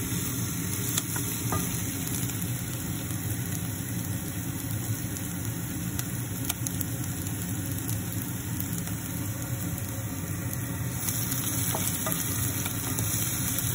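Chopped onions sizzling as they sauté in a stainless steel saucepan, with a few light scrapes and taps of a wooden spoon stirring them, over a steady low hum.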